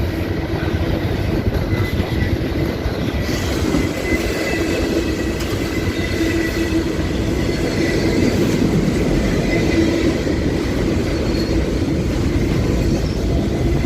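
Train rolling past, its railroad cars making a steady, continuous rolling noise on the rails with faint high steady tones above it.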